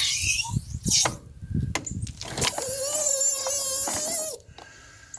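Bottle jack worked by a long pipe lever, pressing on a bent steel hydraulic cylinder rod: a few sharp metal knocks, then a loud wavering squeal of steel under load for about two seconds that cuts off suddenly as the rod gives.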